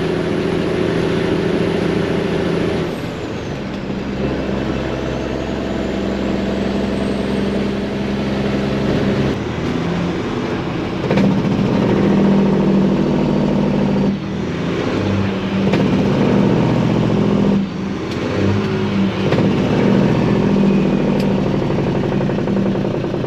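Freightliner semi truck's Detroit diesel engine running loud, its engine note changing in steps several times as the revs go up and down.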